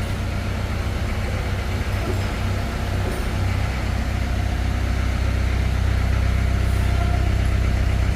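An engine idling steadily with a deep, low hum that gets a little louder about five seconds in.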